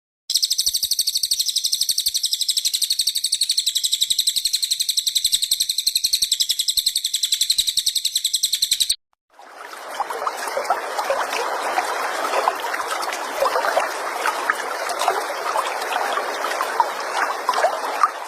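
Recorded songbird song in two parts. First comes a high, very rapid buzzing trill held for about nine seconds. After a short break, a lower, dense chattering song follows.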